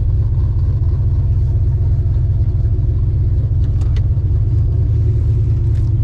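Race truck's engine running with a steady deep rumble, its drive belt thrown so that the power steering has gone.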